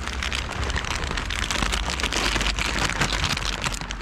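Rain pattering in dense, fast ticks, with a steady low rumble underneath.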